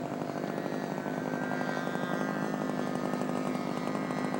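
Radio-controlled model airplane's small engine running steadily in flight, a high buzzing drone that grows slightly louder.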